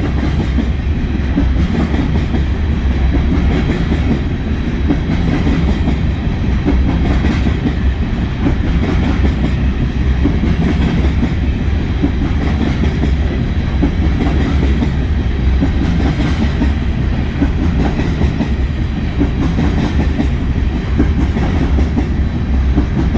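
BNSF freight train of hopper cars rolling slowly past: a steady rumble of the wagons, with wheels clicking over the rail joints.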